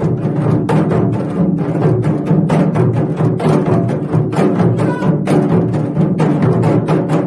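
Gogo janggu hourglass drums struck in a steady rhythm over recorded backing music with a beat.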